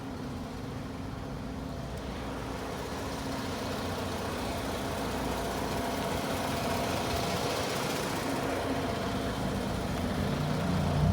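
A motor vehicle's engine running steadily with road hiss, slowly growing louder, with a short louder swell at the very end.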